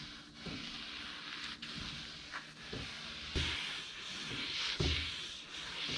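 Headliner fabric being pressed and smoothed by hand onto an adhesive-coated headliner board, a soft rubbing hiss that grows stronger after about three seconds, with a few light taps.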